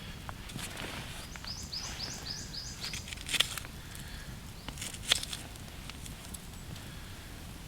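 A bird calling a quick run of about six short, high, falling chirps, with two sharp knocks or snaps standing out over a low steady outdoor rumble.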